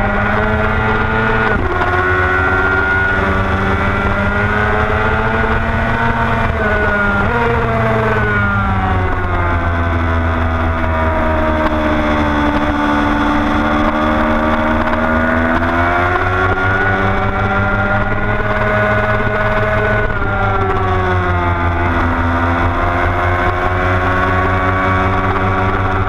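Motorcycle engine running hard through a lap, its pitch climbing under acceleration and sinking as it slows for corners, with sudden steps in pitch at about a second and a half and about seven seconds in. A heavy low wind rush on the bike-mounted camera runs under it.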